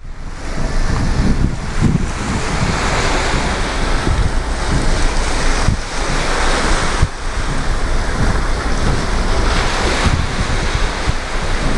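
Wind buffeting the microphone in strong, uneven gusts over a steady rush of sea water, as heard from the deck of a moving cruise ship.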